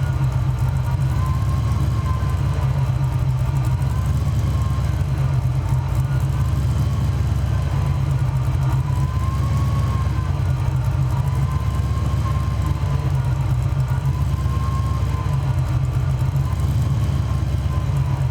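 Fox-body Mustang engine running steadily at idle, a continuous low rumble with a faint whine that slowly wavers in pitch.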